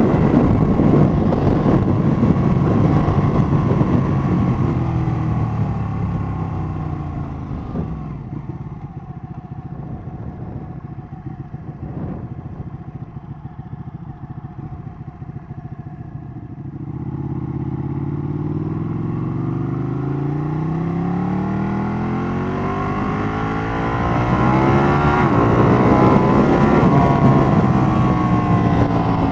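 Ducati 1199 Panigale's V-twin engine and wind heard from the rider's position. The engine note falls as the bike slows, runs low and quiet for several seconds, then rises again from about halfway as the bike accelerates away up through the gears.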